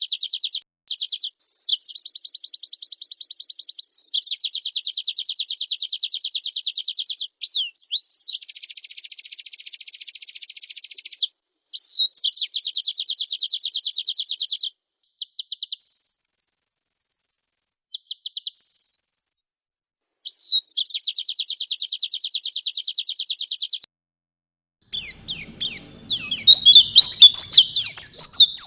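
White-eye (pleci) singing: long runs of rapid, high trilled notes separated by short pauses, with a very high buzzy phrase about two-thirds of the way through. In the last few seconds the song becomes a jumble of quick chirps over a low background noise.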